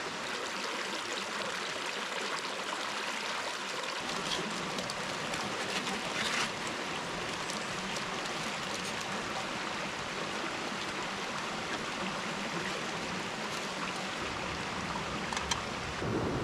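Steady hiss of rain falling in the rainforest, with a few sharper ticks.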